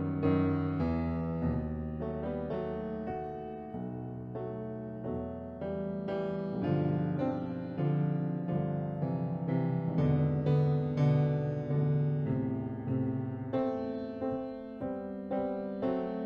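Solo piano playing a slow postlude, chords and melody notes struck about twice a second.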